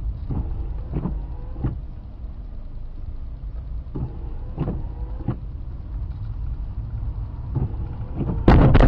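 Car running on the road, a steady low rumble with several short knocks. A sudden loud burst of noise near the end.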